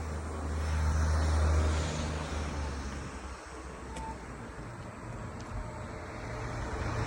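A motor vehicle passes: a low engine and road rumble swells about a second in, fades away, and builds again near the end as another approaches.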